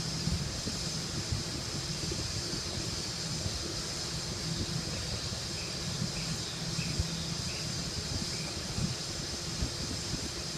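Steady rushing noise with an on-and-off low hum, and about five faint short chirps a little past the middle, from a bird in a dryer vent.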